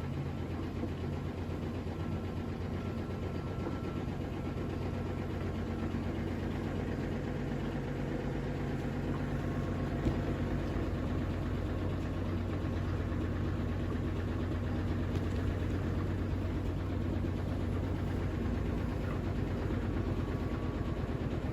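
Electrolux Ecologic 12 kg washing machine running, a steady low motor hum with vibration.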